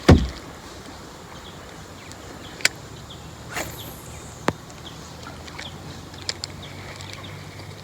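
Knocks and clicks in a fishing kayak. A heavy low thump comes right at the start, then a few sharp separate clicks and taps follow over the next few seconds.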